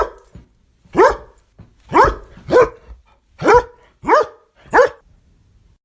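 A dog barking: seven loud barks spaced roughly half a second to a second apart, each rising quickly in pitch at its start.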